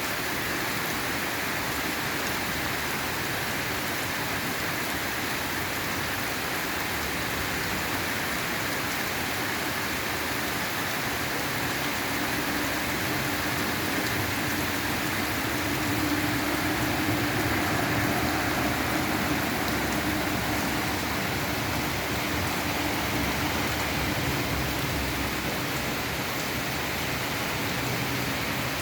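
Steady rain falling, an even hiss of drops on surfaces that swells slightly about halfway through.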